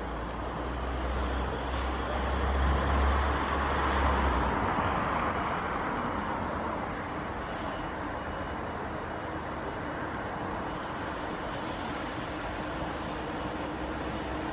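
A train passing: its noise swells to a peak about three to four seconds in, then eases to a steady rumble, with faint high-pitched whines coming and going.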